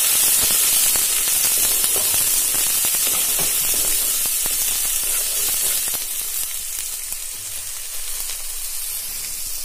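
Soaked soya chunks sizzling as they fry in hot mustard oil in a kadhai, turned with a wooden spatula. The steady sizzle eases a little about six seconds in.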